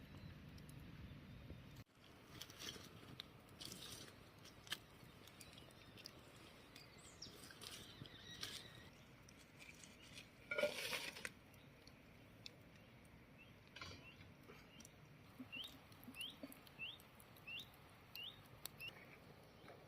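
Quiet outdoor ambience with scattered small clicks and rustles, one louder rustle about halfway through. Near the end a bird gives a run of six short rising chirps, about two a second.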